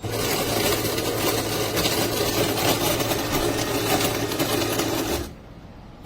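De'Longhi TrueBrew's built-in burr grinder running for about five seconds, grinding coffee beans over a steady motor hum, then stopping abruptly.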